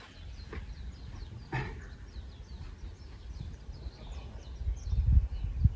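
Small birds chirping repeatedly in short notes over a low rumble, with a single short knock about a second and a half in.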